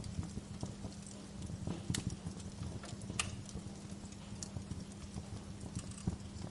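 Wood fire in a fireplace crackling with irregular snaps, with a couple of sharper pops about two and three seconds in, over a steady low hum.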